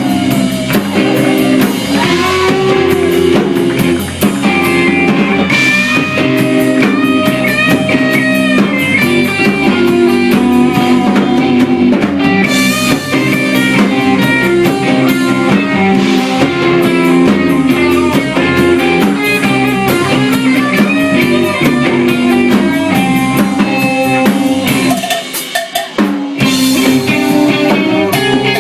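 A rock band playing live: electric guitar with bending lead notes over bass and a drum kit keeping a steady beat, with a short drop in level about 25 seconds in before the full band comes back.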